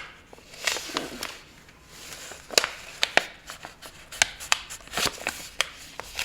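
A sheet of paper being folded and creased by hand: irregular sharp crinkles and taps with soft rustling, busier in the second half.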